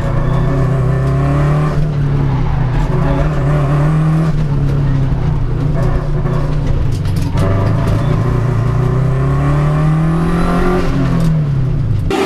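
Racing car engine running loud and continuous, its pitch rising and falling several times as it revs up and eases off.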